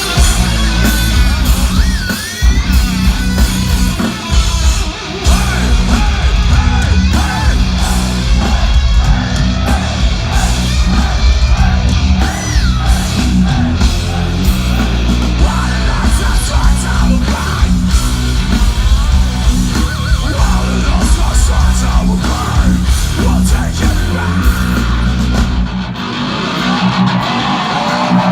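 A heavy metal band playing live, loud: distorted electric guitars over heavy bass and drums, with shouted vocals. The heavy low end drops away a couple of seconds before the end.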